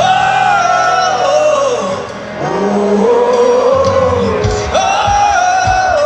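Live rock band playing loudly, with a singer holding long, gliding high notes over bass and drums.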